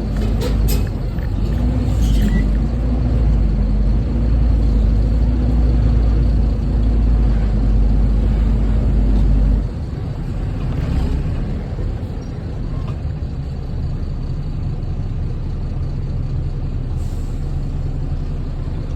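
Diesel truck engine running with a heavy low rumble, which drops to a quieter, steadier idle about ten seconds in. A few short air hisses from the air brakes cut in now and then.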